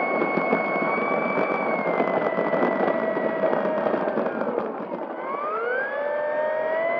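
Electric brushless motor and propeller of an FMS P-40B Warhawk RC plane whining in flight, with wind rushing over the on-board camera. The motor pitch sags about four seconds in as the throttle is cut back, then climbs again as power is added.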